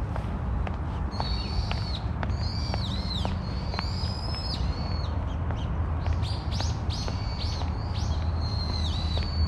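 Birds calling: repeated high, thin whistled calls, several overlapping and some ending in a quick downward hook, starting about a second in. Under them runs a steady low rumble, with faint clicks scattered through.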